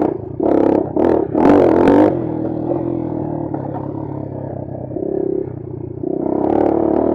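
Bashan Brozz 250 dual-sport motorcycle's single-cylinder engine under way, revving in short surges during the first two seconds. It then runs steadier and picks up again near the end.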